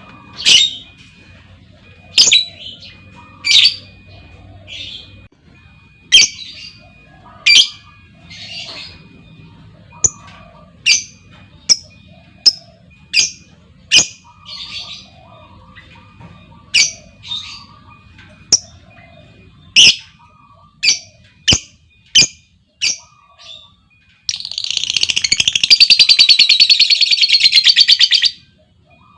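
Lovebirds giving a series of sharp, loud, high chirps. About 24 seconds in, one breaks into a long, rapid chattering trill lasting about four seconds: the 'ngekek' that keepers listen for as a sign of a bird in song condition or arousal.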